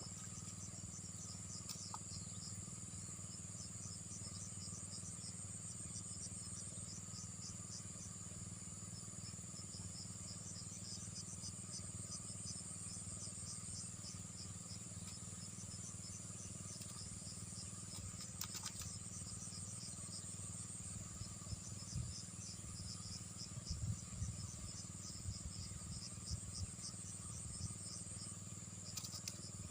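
Insects chirring steadily in a fast, high-pitched pulsing trill over a low steady hum, with a few soft low bumps in the last third.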